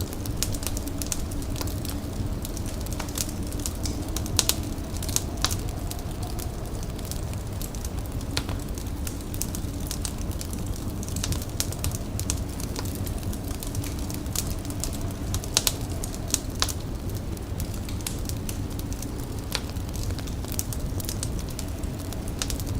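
A fire crackling, with irregular sharp pops over a steady low rumble.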